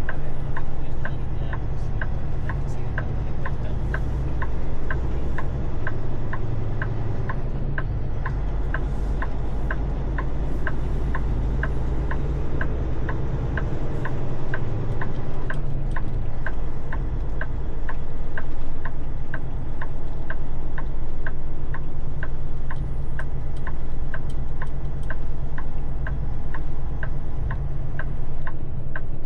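Truck engine idling with a low, steady rumble, over which a crisp tick repeats evenly about twice a second.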